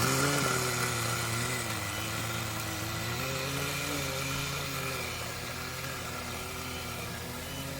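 Small nitro glow engine of a Kyosho Blizzard RC tracked vehicle running, its pitch wavering gently up and down.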